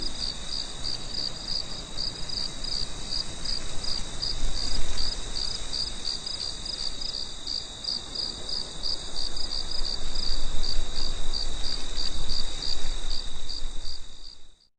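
A cricket chirping steadily in an even rhythm, about three or four chirps a second, over a low rumble. It cuts off abruptly just before the end.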